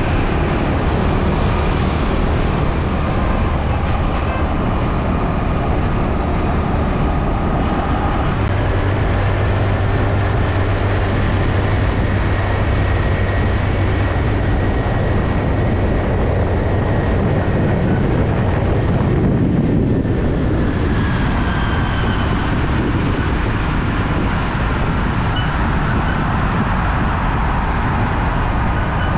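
Road traffic with heavy trucks: a steady, loud rumble of engines and tyres with a deep hum, and faint rising and falling whines as vehicles pass.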